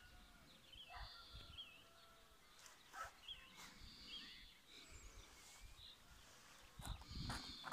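Faint outdoor nature soundscape: small birds chirping in short warbling calls, with scattered knocks and low thumps that cluster loudest about seven seconds in.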